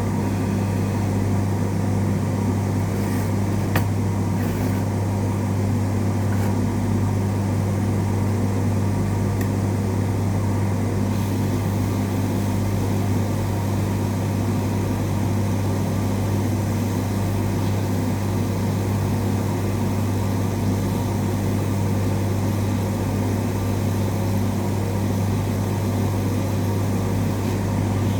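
Steady low electrical hum with a faint hiss, and a single click about four seconds in.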